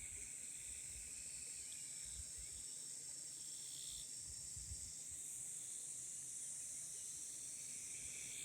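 A chorus of insects singing: one steady, high-pitched trill throughout, with other insects calling on and off at lower pitches.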